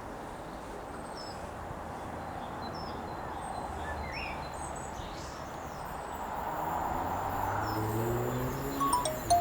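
Steady outdoor background noise with small birds chirping now and then. In the last few seconds a low hum and a run of short pitched tones grow louder.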